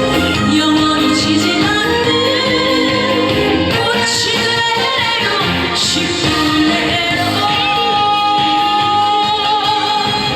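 Trot song sung by a woman over loud, continuous band accompaniment, her held notes wavering with vibrato.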